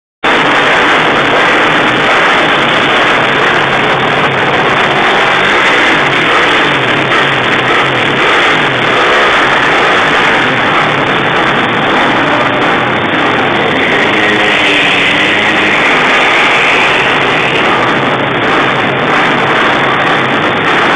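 Honda CG 150 Titan motorcycle's single-cylinder four-stroke engine, bored out to 248cc, running loud and revving, its pitch wavering up and down.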